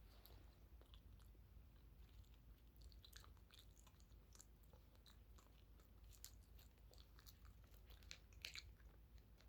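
Faint chewing close to the microphone: a person eating, with scattered soft mouth clicks and small crunches.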